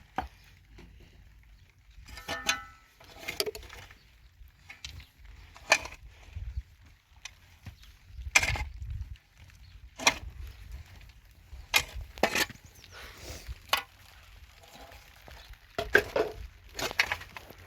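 Irregular sharp knocks and clatter, one every second or two, with softer rustling in between.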